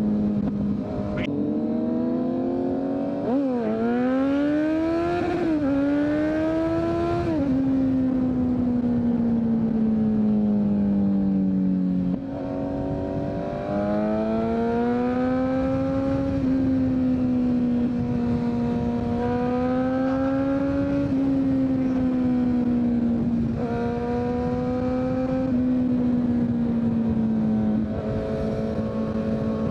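2023 Kawasaki Z900's inline-four through a full Leo Vince exhaust under way: a few seconds in it pulls hard through three quick upshifts, each pitch climb cut by a short drop, then cruises with the engine pitch rising and falling gently with the throttle. There is a brief roll-off about twelve seconds in, and steady wind rush throughout.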